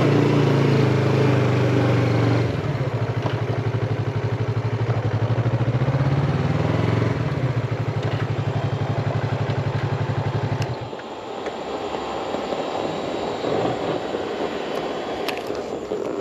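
Yamaha MT-25 parallel-twin motorcycle engine slowing and then running at a steady, evenly pulsing low speed, stopping abruptly about eleven seconds in. A quieter mix of scattered clatter and a few clicks follows.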